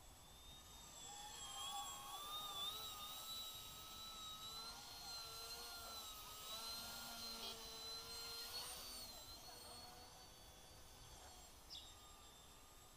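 FPV racing quadcopter's electric motors and propellers whining, the pitch wavering up and down with the throttle. The whine swells from about a second in and fades away near the end as the quad flies by.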